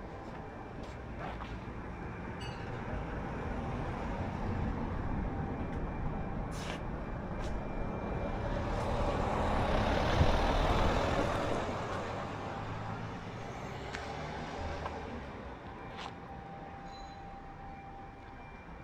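A motor vehicle passing by over steady traffic rumble: its noise swells about halfway through, is loudest for a moment, then fades away.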